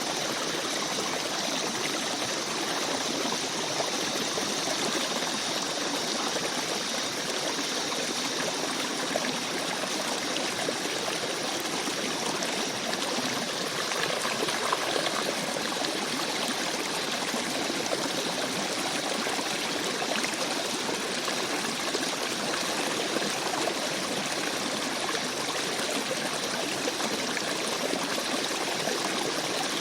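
A small stream babbling and trickling over rocks, a steady flow of rushing water with fine bubbling detail.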